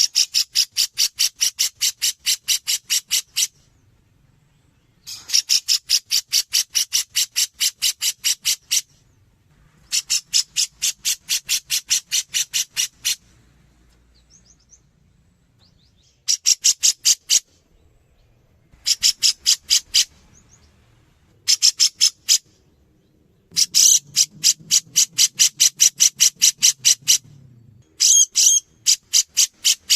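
Grey-cheeked bulbul (cucak jenggot) calling in repeated bouts of rapid, evenly spaced high notes, about five a second. Each bout lasts one to three seconds, with short pauses between.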